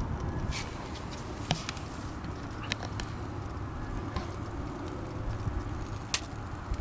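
Kindling fire in a washing-machine-drum fire pit catching, with a handful of sharp, irregular crackles and snaps over a steady low rumble of wind.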